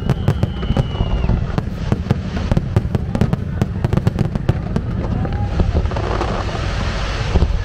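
Aerial fireworks display: a dense run of sharp bangs from bursting shells over a constant low booming. A high whistling tone is held for about the first second, and a crackling hiss builds up from about six seconds in.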